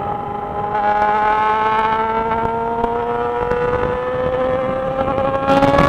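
Yamaha XJ6 motorcycle's inline-four engine pulling under steady acceleration, its pitch rising slowly and evenly throughout.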